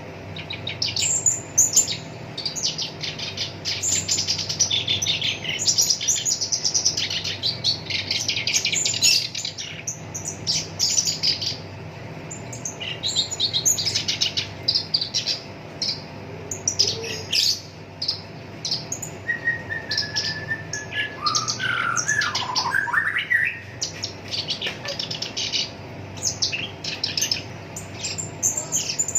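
Black-browed reed warbler singing a fast, harsh chattering song in long runs of rapid notes with short pauses. About two-thirds of the way through there is a lower, sliding whistled phrase.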